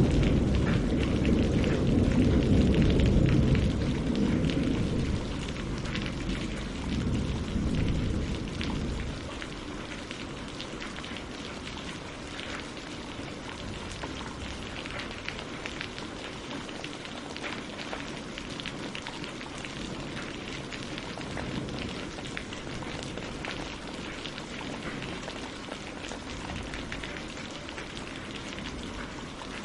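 Steady rain falling on leaves and lake water, with many small drop patters. A low rumble of thunder dies away over the first nine seconds or so.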